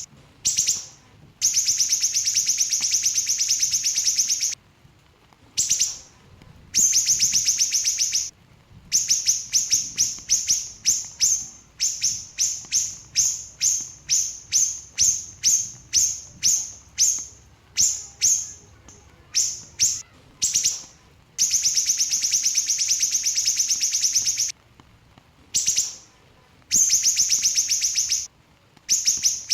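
Small siri-siri songbird singing in rapid, tightly packed bursts of high chirps. Long runs of fast notes alternate with stretches of separate sharp notes at about two a second, with brief pauses between phrases.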